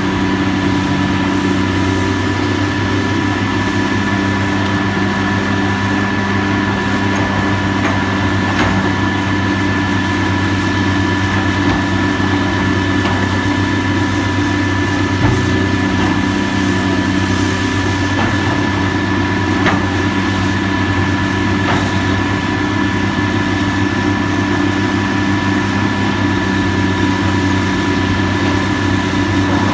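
Engine of heavy demolition machinery running steadily at an even pitch, with a thin steady high whine over it and a few faint knocks.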